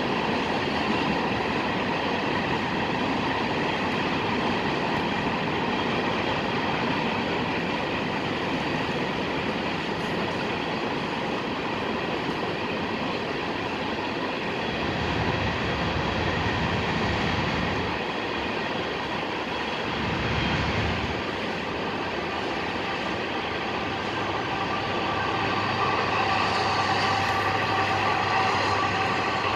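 A train rolling past on the track: a continuous rumble of wheels on rail with faint steady high-pitched ringing tones over it, swelling slightly a few times.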